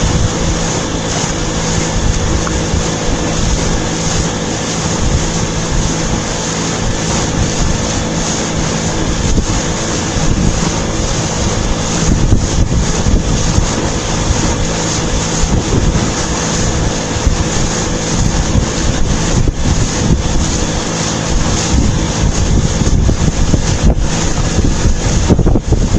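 Boat engine running steadily under way, with wind buffeting the microphone and the rush of water.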